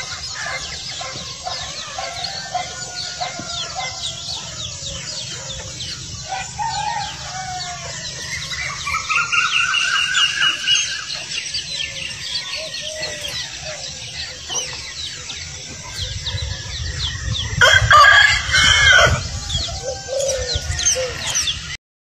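Bird calls over constant rapid high chirping: a long call that rises and then holds for a few seconds about eight seconds in, and a louder burst of calls near the end.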